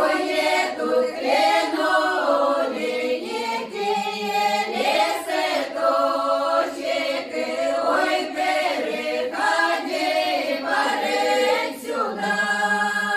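Russian folk choir singing a song in several voices, changing notes every second or so, then settling on a long held chord near the end.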